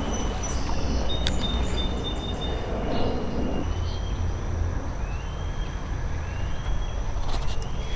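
Creek water sloshing with a steady low rumble as someone wades. From about halfway in, a short rising chirp repeats about once a second.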